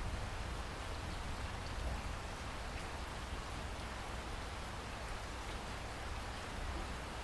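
Steady rain falling, a constant hiss of drops with a low rumble underneath.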